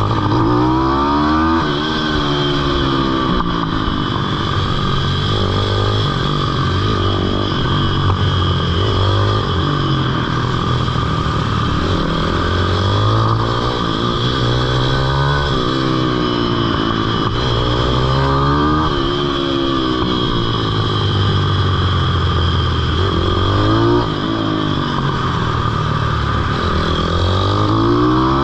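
Pitbike's small single-cylinder engine under riding load, its pitch climbing and dropping back over and over as the throttle is opened and closed through the corners.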